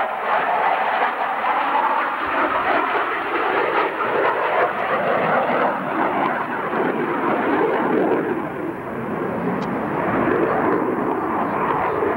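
Jet noise from a CF-18A Hornet's twin General Electric F404 turbofan engines as the fighter comes out of a steep dive and flies past. The sound is steady and dense, and it deepens in pitch over the second half.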